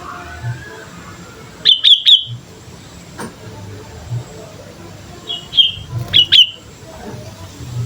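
Sooty-headed bulbul (kutilang) calling: a quick cluster of three loud, sharp chirping notes about two seconds in, and another run of clipped notes a little past halfway.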